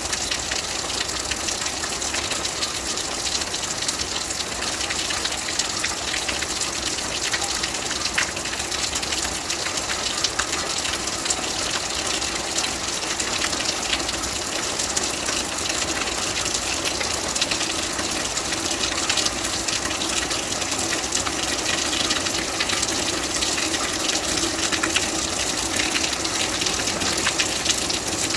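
Steady rain: a dense, even hiss of falling water flecked with countless small drop ticks, unchanging throughout.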